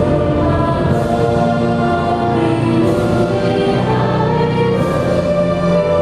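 A choir singing with instrumental accompaniment, loud and continuous, in long held notes.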